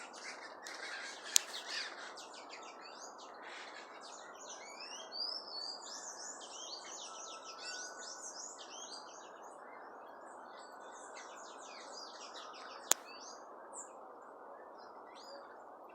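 Many birds chirping and calling together in a fruiting wild fig tree, a busy mix of quick high chirps and short falling whistles over a steady background hiss. Two sharp clicks stand out, one about a second in and one near the end.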